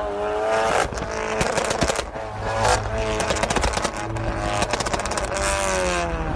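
Sports car engine revved hard several times, each rev rising and falling, with rapid crackling exhaust pops between the revs.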